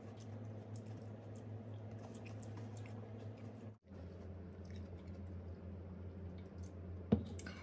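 Close-up chewing of grapes: small wet smacks and clicks of the mouth over a steady low hum. The sound drops out briefly just under 4 s in, and a sharp click comes about 7 s in.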